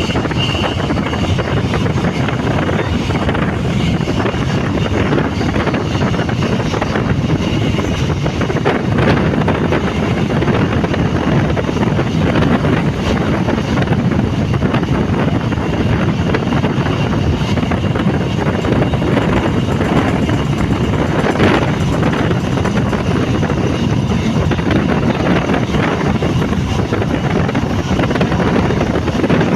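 Steady, even rumble of a moving vehicle mixed with wind noise on the microphone.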